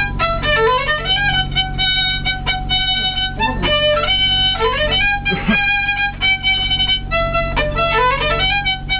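Violin played live, a melody of held notes broken by quick runs of short notes, over a steady low hum.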